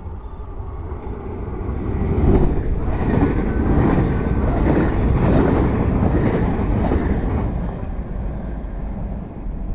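Dutch NS double-deck electric passenger train passing the platform without stopping: wheel-on-rail noise builds over about two seconds, stays loud while the carriages go by, then fades as the train moves away.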